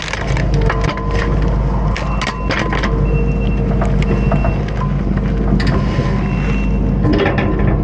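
Kubota SVL75-2 compact track loader's diesel engine running under load as its stump bucket tears a tree stump out, with many sharp cracks and snaps of roots and wood splintering.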